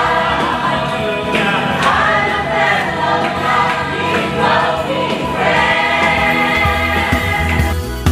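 Christian worship music with a choir singing over a band; the voices drop away near the end while the instruments carry on.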